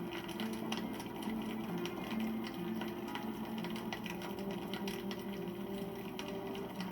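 Wood campfire crackling, with irregular sharp pops and snaps over a constant low background. Soft sustained tones that shift pitch every half second or so run underneath.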